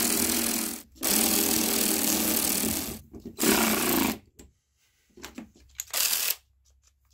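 Cordless drill/driver motor running in several bursts of one to two seconds, then short blips near the end. The user takes it for a battery running out of charge.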